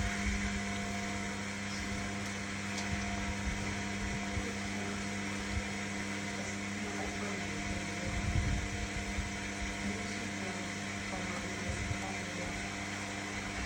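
Indesit My Time EWD61052 washing machine running, a steady motor hum made of several held tones over an uneven low rumble.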